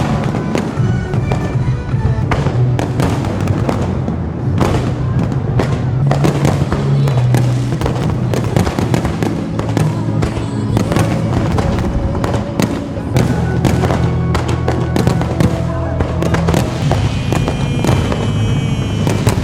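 Fireworks bursting in a continuous barrage of bangs and crackles, over music with deep sustained bass notes.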